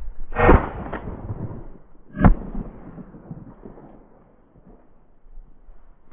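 Two 12-gauge shotgun shots about two seconds apart, the second a sharper crack.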